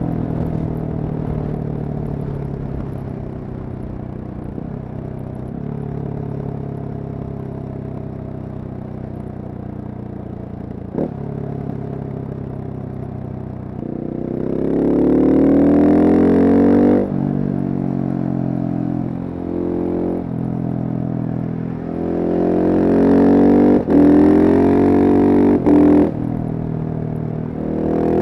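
Single-cylinder Husqvarna supermoto engine running at fairly steady, easing revs, then accelerating hard from about halfway, the revs climbing in rising sweeps with brief drops between them as it shifts up through the gears.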